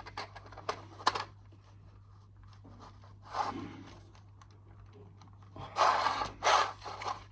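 Small plastic clicks of Lego pieces being handled and fitted together, with two longer hissing rustles, one near the middle and a louder one near the end.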